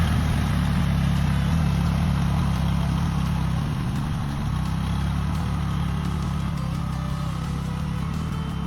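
A vehicle engine running steadily with a low hum, without revving up or down.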